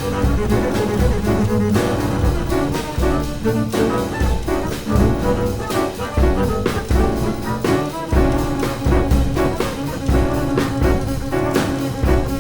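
Jazz trio of drums, double bass and piano playing, with frequent drum and cymbal strokes over sustained notes.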